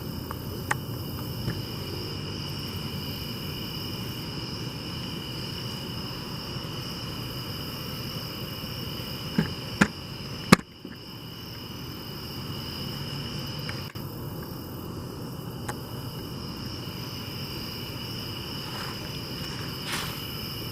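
Crickets or similar insects trilling steadily at two high pitches, with a low rustling haze underneath. A few sharp clicks or knocks break in, the loudest three close together about ten seconds in.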